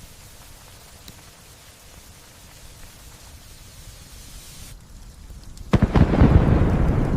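Steady light rain, then about six seconds in a sudden sharp thunderclap that turns into a loud, slowly fading rumble.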